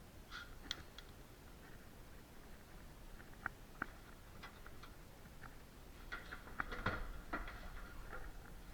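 Irregular light clicks and knocks of hand tools and metal parts while a car door is unbolted from its hinges, with a denser run of clicks in the second half.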